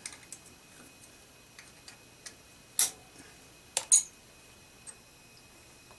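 Sharp metal clicks and clinks of a lathe cutting tool being loosened and lifted out of its tool post, with a few faint ticks, one loud click about halfway through and a quick pair about a second later.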